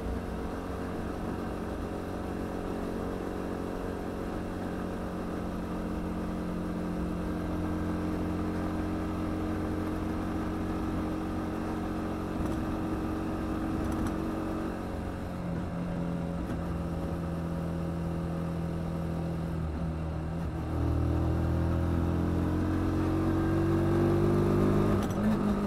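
Kymco Quannon 125's single-cylinder four-stroke engine running under way, with wind noise on the rider's camera. The engine note shifts about halfway through, then grows louder and rises in pitch near the end as the bike accelerates.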